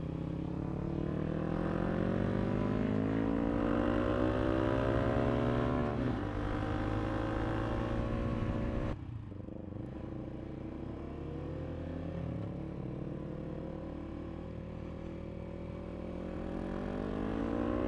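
KTM RC390's single-cylinder engine under way, its note rising as the bike accelerates for the first nine seconds, then dropping off suddenly, running steadier and climbing again near the end.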